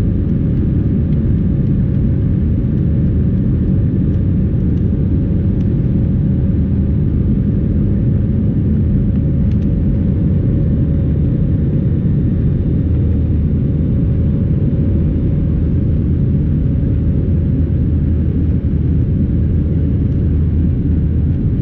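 Steady cabin noise inside an Airbus A320 airliner in flight: a constant low rumble of the engines and airflow with a faint steady hum above it.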